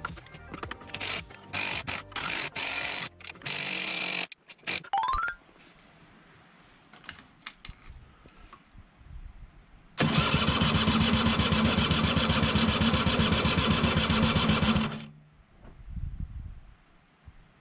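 Background music for about the first five seconds, ending in a short rising tone. Then, about ten seconds in, the Honda Gyro X's 50cc two-stroke engine is cranked for about five seconds with a fast, even pulse and cuts off abruptly without catching, the throttle left closed.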